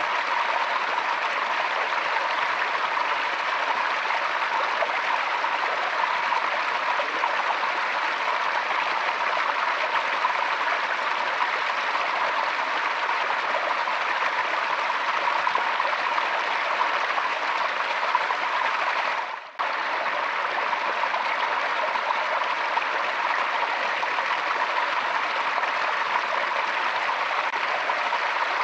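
Forest stream flowing steadily over rocks, a constant rush of water. About two-thirds of the way through it briefly fades out and cuts straight back in.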